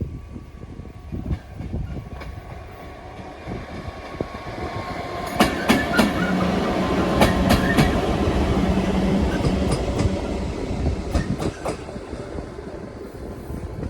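A train passing, its wheels clacking over the rail joints. It grows louder about five seconds in, with a steady low hum in the middle of the pass, then eases off near the end.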